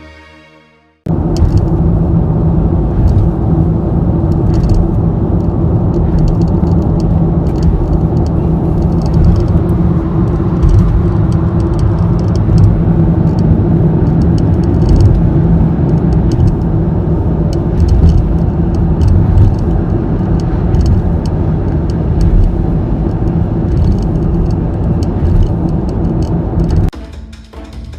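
Inside the cabin of a 2015 Toyota Noah 80-series hybrid at highway speed: loud, steady road and wind noise with a steady droning tone. This is the abnormal noise coming from the front fender extension near the base of the front quarter window. It starts abruptly about a second in and cuts off abruptly shortly before the end.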